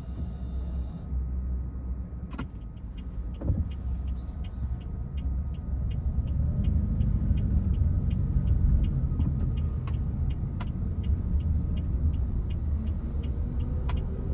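Car running on the road, a steady low rumble of engine and tyres that grows louder about six seconds in. After a click about two seconds in, the turn-signal indicator ticks steadily, about three ticks a second.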